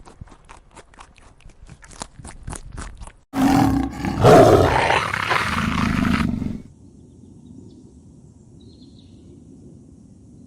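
Quick, regular ticking for about three seconds, then a sudden loud roar from a large animal. The roar lasts about three seconds and cuts off abruptly.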